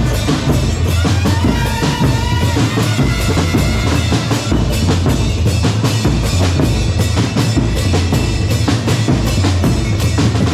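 Drum corps playing: bass drums and snares beat a fast, steady rhythm under a held melody line.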